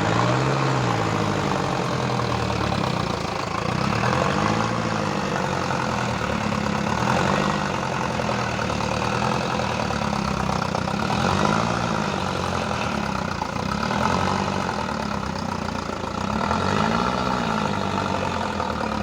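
Heavy diesel engine of a Mahindra tractor harvester running, its pitch rising and falling again and again as it is revved up and eased off, about five times.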